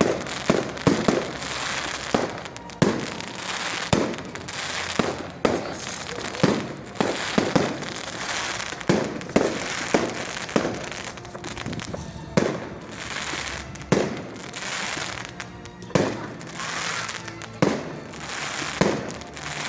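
Fireworks going off in quick succession: sharp bangs at irregular intervals, often under a second apart, over a continuous crackling hiss.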